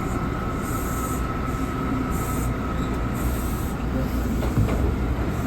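R179 subway car running through the tunnel: a steady low rumble of wheels on rail, with a thin high-pitched whine that fades out after about three seconds.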